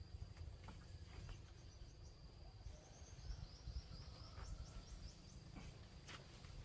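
Faint rural ambience: a steady high insect drone, with a few short bird chirps over a low rumble.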